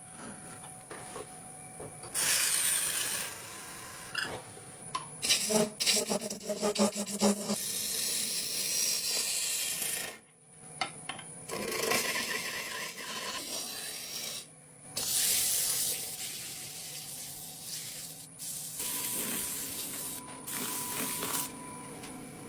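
Rubbing and rasping strokes of hand tools working wood, in several short stretches that start and stop abruptly.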